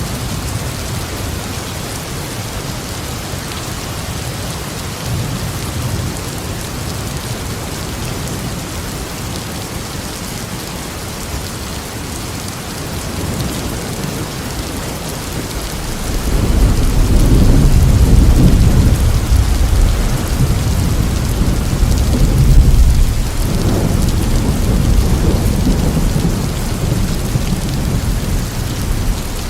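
Steady rain falling, with a long low rumble of thunder that swells up a little over halfway through, rolls on for several seconds and eases off near the end.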